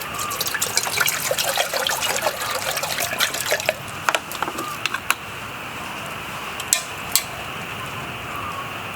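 Liquid being poured, a busy bubbly trickle lasting about four seconds, followed by a few separate sharp clicks or taps.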